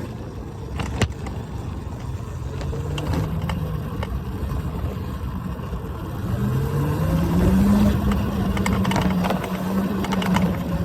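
Electric dirt bike motor whining over a steady rumble. Its pitch climbs about six seconds in as the bike speeds up, then holds, with a sharp knock about a second in.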